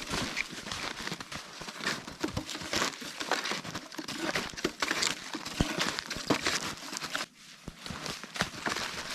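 Snowshoes crunching through fresh snow with each step, a steady walking rhythm that pauses briefly about seven seconds in.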